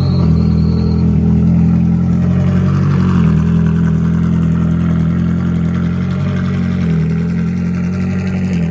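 Supercar engine running steadily at an even, low pitch, with slight shifts in engine speed.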